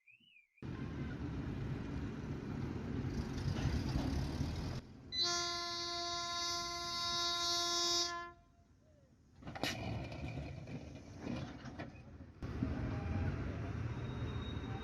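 Road and tyre noise of a moving car, interrupted near the middle by one steady horn blast held about three seconds, which cuts off sharply. A sharp click follows, then road noise again.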